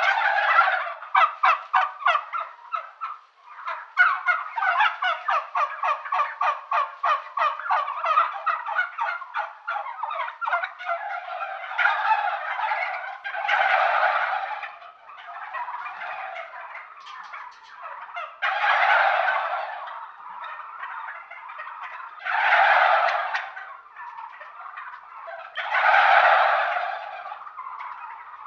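Domestic turkeys gobbling. For the first ten seconds or so the calls come in a fast, closely repeated rattle; after that come four separate, louder gobbles a few seconds apart.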